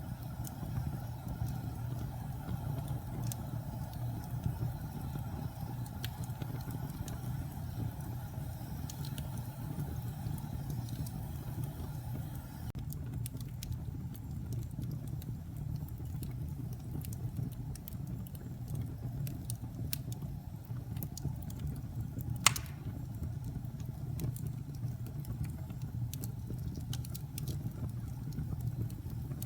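Wood fire burning in a fireplace: a steady low rumble of flames with scattered small crackles, and one sharp, loud pop about two-thirds of the way through.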